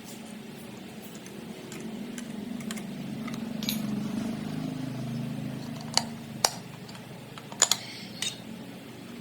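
1979 Honda engine running with a low, steady hum that swells slightly midway. A few sharp metallic clicks and taps come in the second half.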